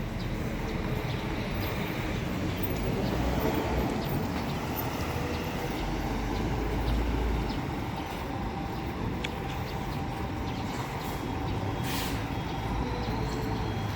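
Scania Marcopolo Paradiso coach running with a steady low rumble, with scattered light ticks and a short hiss of air about twelve seconds in.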